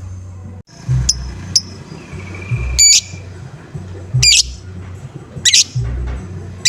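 Lovebird giving harsh, high 'ngoek-ngoek' calls, short and loud, repeated about every second and a half, with two briefer chirps about a second in. A low, pulsing thump runs under the calls.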